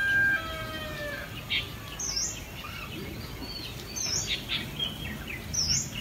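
Birds chirping and calling, with short chirps and a high repeated call coming several times. The end of a rooster's crow fades out in the first half second.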